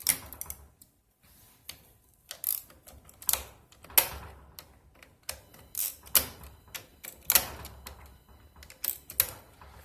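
A wrench breaking loose a row of tight fasteners on a Nissan Leaf battery module pack, one after another. Each gives a sharp crack as it lets go, with lighter mechanical clicking in between.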